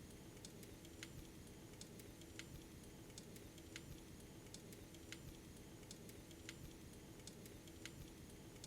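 Faint, irregular crackles of a wood fire in a fireplace, about one or two a second, over a low steady hum.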